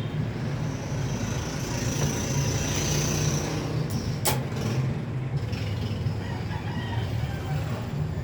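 A rooster crowing once, one drawn-out high call, over a steady low hum, with a single sharp knock about four seconds in.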